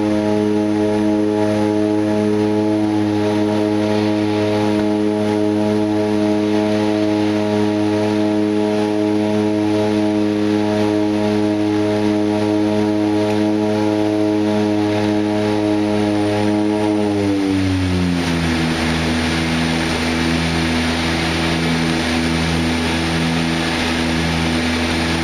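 Twin turboprop drone of a DHC-6 Twin Otter's two Pratt & Whitney PT6A engines and propellers running at high power. About seventeen seconds in, the whole tone glides down to a lower steady pitch as the propeller speed is brought back, typical of the reduction from take-off to climb power.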